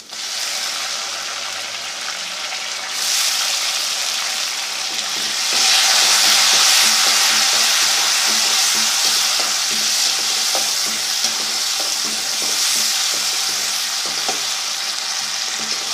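Onions and ginger-garlic paste frying in hot oil in a pan, sizzling steadily while being stirred. The sizzle grows louder about three seconds in and again about five seconds in.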